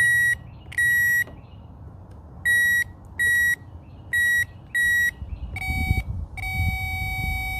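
Electronic circuit tester beeping as its probe touches fuse contacts with the key on: short, high beeps, mostly in pairs, then a shorter and a longer beep with a lower tone near the end.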